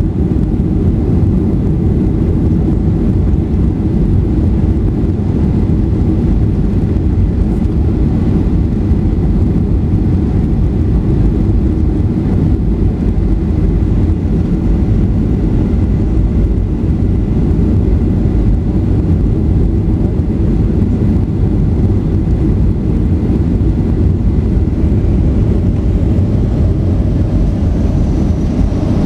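Steady low rumble of a Boeing 737-800's engines and airflow heard inside the cabin, with a faint high whine rising near the end.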